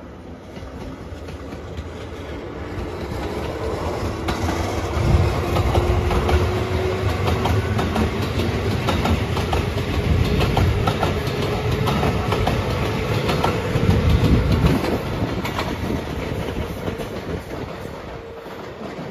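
JR 213-series electric train passing close by, its wheels clacking over the rail joints. The sound builds, peaks as the cars go past, and fades near the end, with a low hum rising steadily in pitch throughout.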